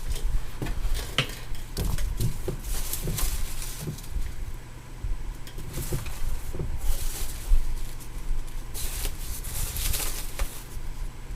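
Hands digging through loose foam packing peanuts: scattered rustles, squeaks and clicks, with a few louder rustling bursts.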